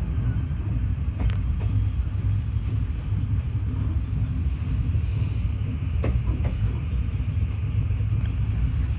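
Mugunghwa passenger train running along the track: a steady low rumble, with a couple of faint clicks about a second in and again around six seconds.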